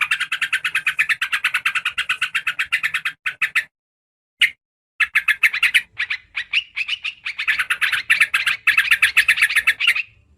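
Recorded yellow-vented bulbul (trucukan) song used as a bird-lure call: a fast chattering run of notes, about ten a second. It cuts off abruptly at about four seconds, leaving one lone note, then starts again.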